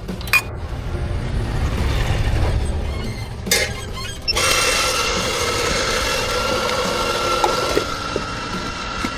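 A glassy clink, then a short blast of hiss about three and a half seconds in, then an espresso machine's steam wand hissing steadily with a held whine, as when steaming milk.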